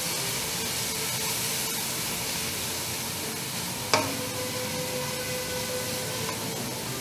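Chopped onions and garlic sizzling steadily in hot oil in a metal pan while being stirred with a wooden spoon. A single sharp knock about four seconds in.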